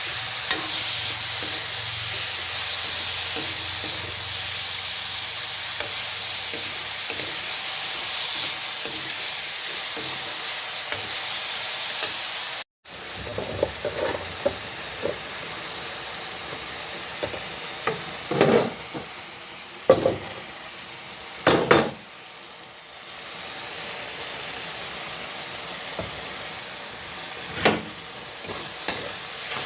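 Food sizzling in hot oil in a pan, loud and steady. After a cut about 13 seconds in, the sizzle is quieter and a spoon stirs and knocks against the pan a few times.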